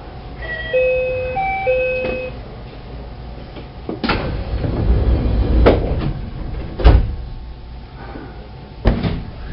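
A short electronic chime, then the sliding doors of a 223 series electric train closing with several loud thuds, and one more knock near the end.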